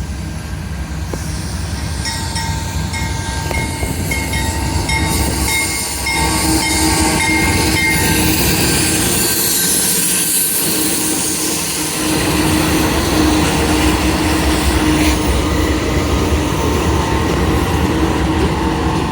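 CSX freight train led by four diesel locomotives rumbling past, growing louder over the first several seconds and then staying loud and steady.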